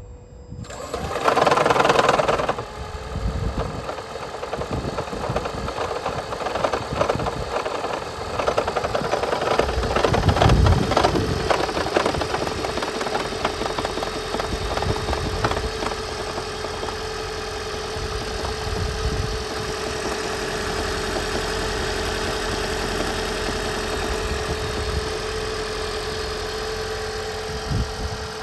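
2010 Toyota Prius 1.8-litre four-cylinder engine hard-starting when cool. It is spun up with a loud burst, then runs roughly and unevenly with knocking and shaking for several seconds before settling into a steadier idle, with a steady whine underneath. The hard start is caused by a head gasket leaking coolant into cylinder 1.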